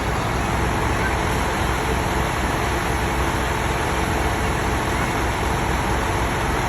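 Heavy vehicle's diesel engine running steadily, with an even low throb.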